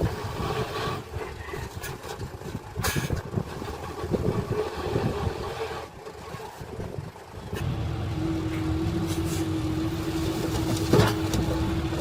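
Heavy earthmoving machine's diesel engine running, uneven for the first seven seconds, then steadier with a held whine from about eight seconds in; a sharp knock comes near the end.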